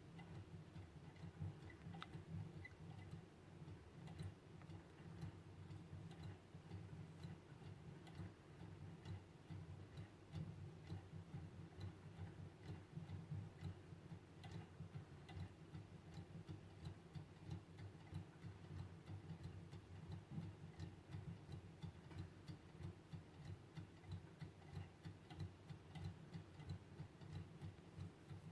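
Hand-made Stirling engine running, its mechanism giving a faint, fast, even ticking.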